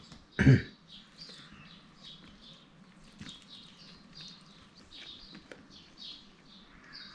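Small birds chirping faintly over and over, high and thin. A brief hum of a man's voice about half a second in.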